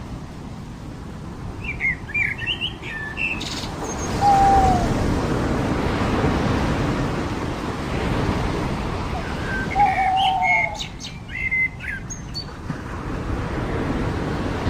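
Surf washing onto a beach, with a wave swelling up about four seconds in, while small birds chirp in two short bouts, one about two seconds in and another around ten seconds in.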